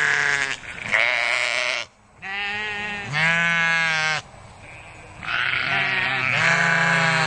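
Sheep bleating: a run of separate bleats, each about a second long, some with a wavering pitch.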